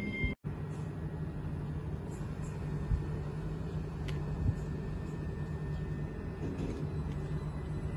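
Electric multiple unit trains standing at a platform: a steady low hum and rumble from the train, broken by a momentary dropout near the start, with a couple of soft thumps later on.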